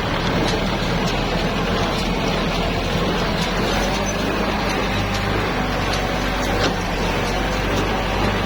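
Tractor diesel engine running steadily with farm machinery working, a continuous low hum with a few faint ticks.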